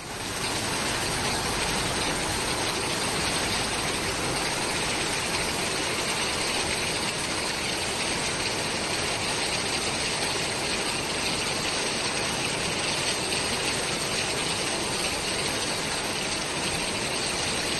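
Fast-flowing floodwater rushing steadily, a dense even noise with no breaks.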